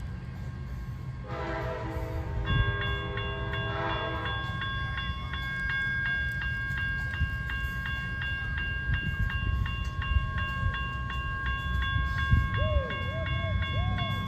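A train horn sounds once for about three seconds over the low rumble of a train. Just after the horn starts, a railroad crossing bell begins ringing with rapid, even strikes, and it keeps ringing.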